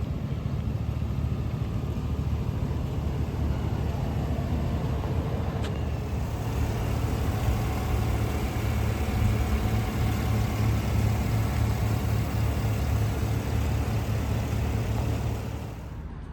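Pickup truck engine running steadily at idle, a low even hum that drops away sharply near the end.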